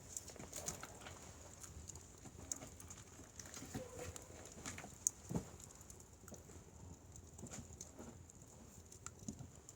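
Firewood burning, crackling with irregular small clicks and pops, the loudest pops about five seconds in.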